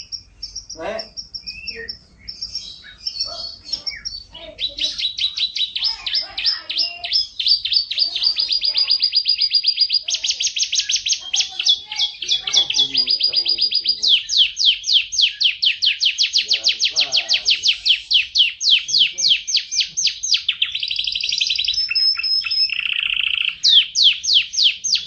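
Songbird singing a long, loud song made of fast trills of repeated high down-slurred notes, broken by a few short held whistles.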